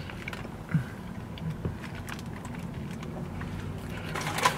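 Quiet chewing of a burrito inside a car, with a few faint clicks over a steady low hum; a short closed-mouth 'mm' about a second in.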